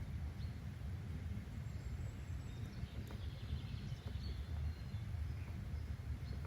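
Nature-sounds ambience: a steady low rumble, with faint high bird chirps now and then.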